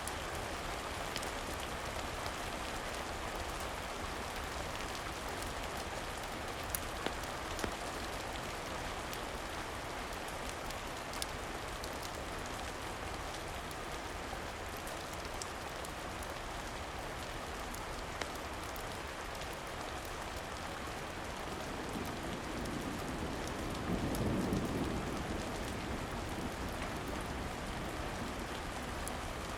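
Steady rain, with a few sharp crackles from a log fire and a brief low swell a little over twenty seconds in.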